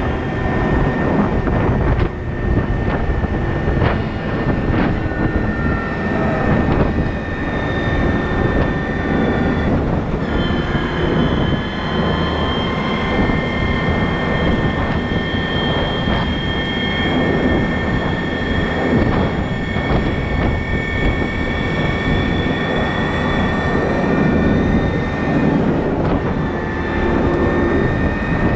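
Heavy diesel machinery running hard and continuously, with high whining tones that rise and fall over the engine noise through the middle stretch.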